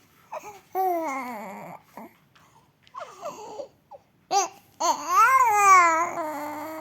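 Four-month-old baby cooing: a string of drawn-out vowel sounds, a few short ones and two longer ones that glide up and down in pitch. The loudest and longest comes in the last two seconds.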